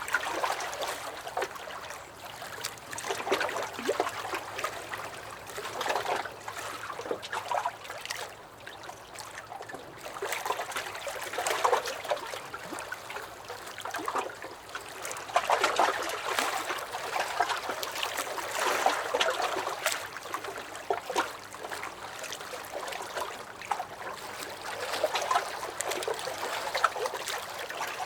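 Small lake waves lapping and sloshing against a dock, coming in uneven surges every few seconds with little splashes in between.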